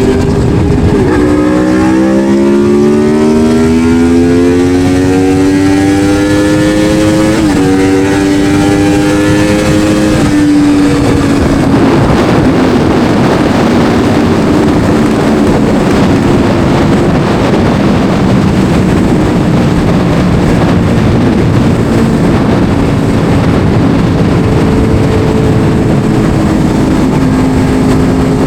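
Yamaha R1 sport bike's inline-four engine accelerating hard. Its pitch climbs, drops sharply at an upshift about seven seconds in, climbs again and drops at another shift about ten seconds in. It then settles to a steadier cruise under loud wind rush on the helmet microphone.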